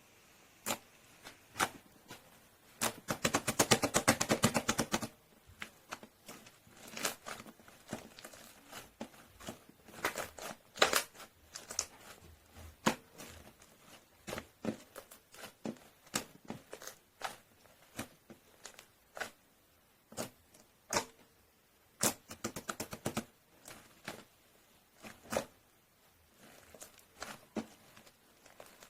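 Close-up eating sounds from a bowl of Korean steamed egg: a spoon clicking and scraping against the dish, with a fast run of clicks for about two seconds near the start and scattered single taps after it.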